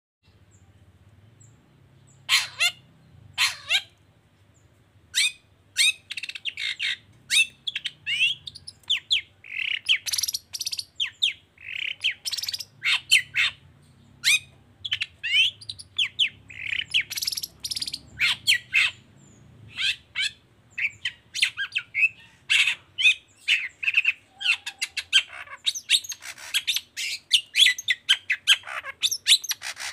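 Long-tailed shrike (cendet) singing a rapid string of short, harsh chirps and squawks with quick up-and-down notes. It starts about two seconds in and comes faster and denser toward the end.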